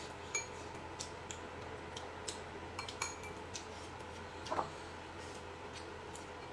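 Light clinks and taps of tableware during a meal, scattered and irregular, some with a short ring, and a louder knock about four and a half seconds in.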